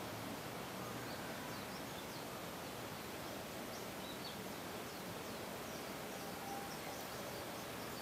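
Steady outdoor background noise with faint, short, high-pitched bird chirps scattered through it.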